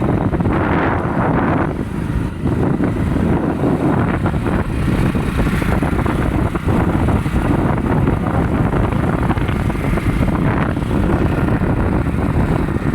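Hero Splendor motorcycle's single-cylinder engine running under way, with a steady low rumble and wind buffeting the microphone.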